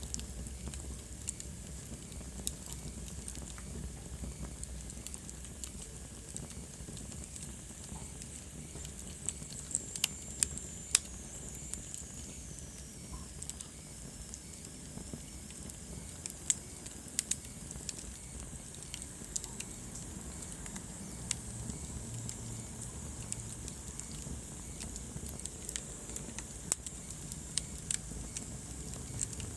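Wood fire in a fireplace crackling: irregular sharp pops and snaps over a steady low hiss. About ten seconds in, a faint high whistle slowly falls in pitch.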